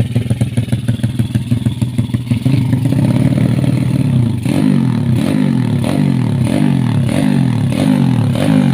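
Yamaha Jupiter underbone motorcycle engine, bored to 200cc, running through an aftermarket RCB exhaust: it idles with a loose, pulsing beat, then is revved up, and from about halfway in is blipped over and over in quick throttle stabs, about two a second, each rev dropping straight back.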